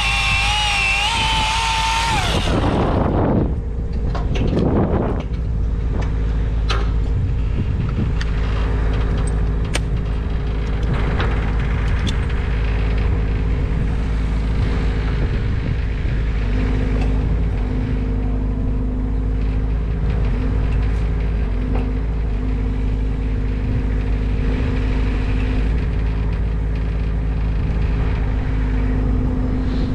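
A high-pitched power tool whine winds down and stops about three seconds in. An engine then runs steadily at a low, even drone, with a few small knocks and clicks over it.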